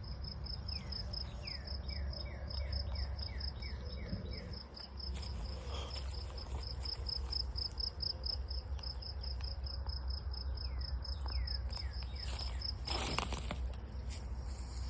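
An insect chirping in the woods: a steady, rapidly pulsed high note that stops near the end. Runs of short falling chirps come about a second in and again near the end, over a constant low rumble, with a brief rustle as the pulsing stops.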